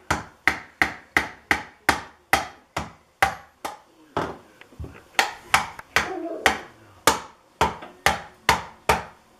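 Hammer driving nails into the thin wooden panels of a birdhouse kit: a steady run of sharp blows, about two a second, with a short pause near the middle.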